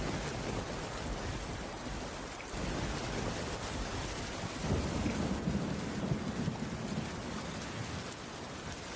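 Steady rain on a wooden cabin roof, an even hiss, with a low rumble that swells up about halfway through and fades toward the end.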